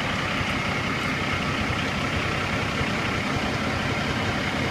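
Dump truck's Cummins ISX inline-six diesel engine idling steadily.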